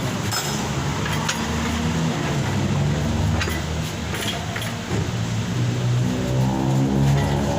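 A motor running steadily, its low pitch shifting, with a few sharp clicks scattered through it.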